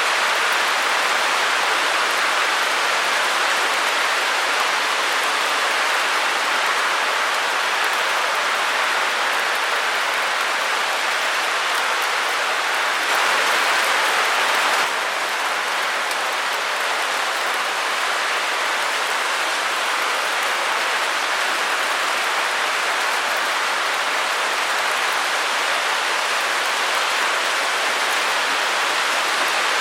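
Steady white-noise hiss, even and without pattern, a little louder for a couple of seconds near the middle.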